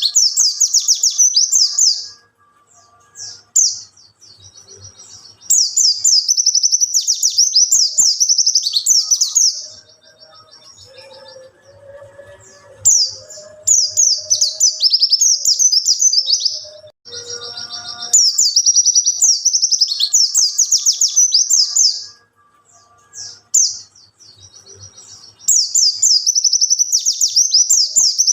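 Wild white-eye (pleci) singing: rapid, high-pitched twittering phrases a few seconds long, repeated about five times with short pauses between. Fainter, lower sounds fill the gaps between phrases.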